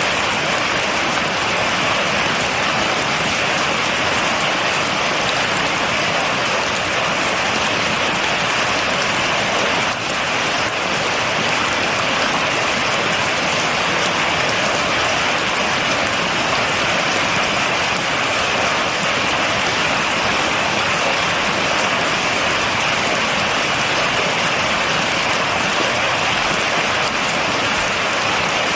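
Steady heavy rain falling, with a dense patter of drops on a surface and no thunder.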